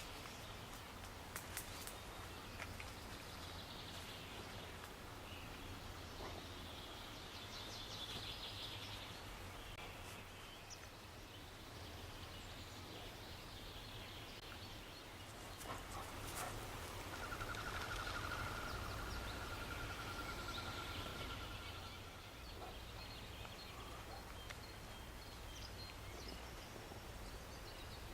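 Outdoor spring morning ambience of wild birds calling and singing over a steady low rumble. One long, even trill lasts a few seconds just after the middle.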